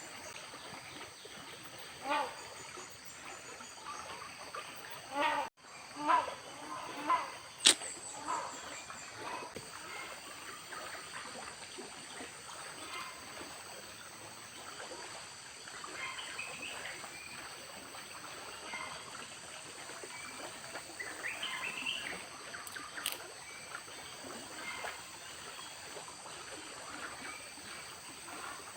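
Tropical forest ambience: a steady high drone of insects with scattered knocks and clicks, the sharpest a single click about eight seconds in.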